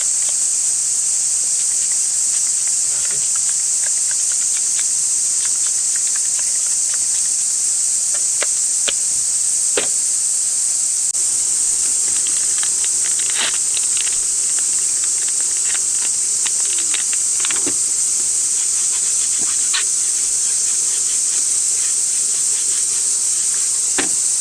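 A chorus of cicadas shrilling steadily without a break. A few light clicks and knocks of things being handled sound now and then.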